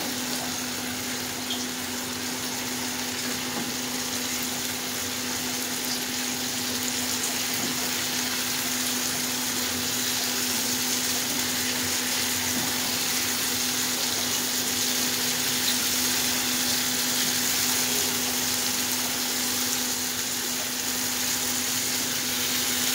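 Chicken pieces in masala paste sizzling steadily in hot oil in a non-stick pan, being fried (bhuna) over a gas flame turned up high. A steady low hum runs underneath the sizzle.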